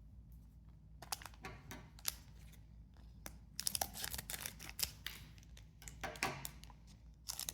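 Foil booster pack wrapper crinkling and tearing as it is opened, with trading cards being handled. Quiet for about a second, then a run of sharp crackles that grows busier in the second half.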